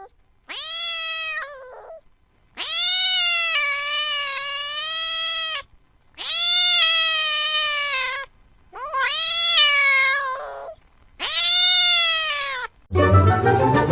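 Domestic cat meowing five times, the second meow long and drawn out. A bright chime starts near the end.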